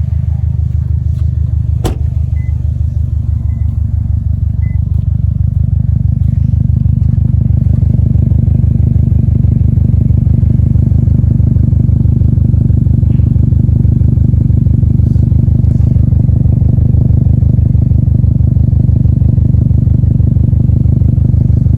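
Subaru Impreza WRX STI's turbocharged flat-four idling through an Invidia titanium aftermarket exhaust. It makes a steady, evenly pulsing low rumble that grows slightly louder over the first several seconds.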